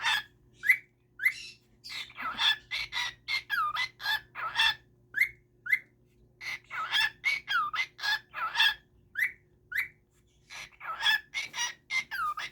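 A bird calling in quick runs of short chirps and squawks, some sliding up or down in pitch, with brief pauses between the runs.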